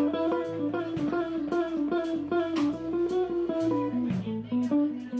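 A blues band playing live: a guitar plays a quick run of single notes over a bass line and drums with regular cymbal hits.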